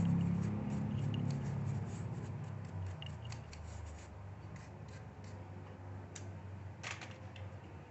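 Background music fading out over the first few seconds, then small scattered clicks and light scraping from hands handling laptop parts, with a sharper click about six seconds in and a short cluster near seven seconds.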